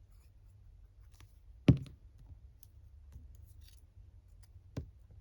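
Paper handling on a craft table: light rustles and small clicks, with a sharp knock about a second and a half in and a softer one near the end.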